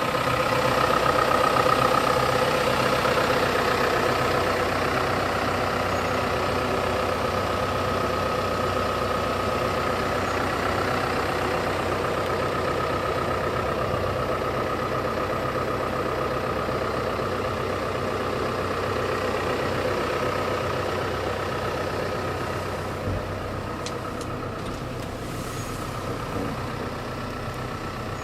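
Hino Dutro truck's four-cylinder diesel engine idling steadily, its even hum easing slightly in level toward the end.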